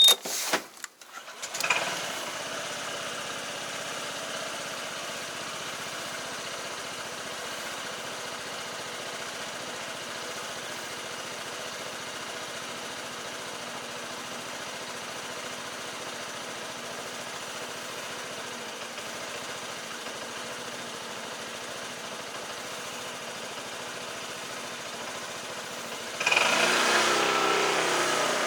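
Delivery motorcycle's small engine starting after a few knocks, then idling steadily; it gets louder near the end as it is revved.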